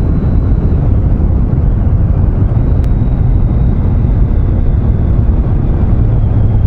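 Triumph Street Triple 660's three-cylinder engine running steadily while riding on a gravel road, with a constant low rumble of wind and tyres.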